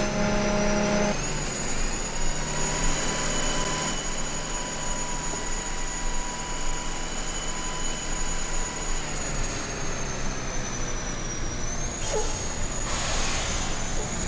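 Motor vehicle running steadily, engine hum and road noise, with a steady high-pitched whine that dips briefly and rises back near the end.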